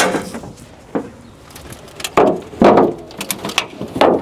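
Door of a damaged 2003 Mitsubishi Lancer being slammed again and again, about five heavy thuds with a ringing tail, the loudest in the second half. It is not latching shut.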